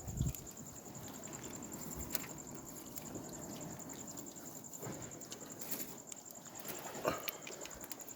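A steady, high-pitched insect trill, finely pulsing, with scattered faint clicks and a low thump at the very start.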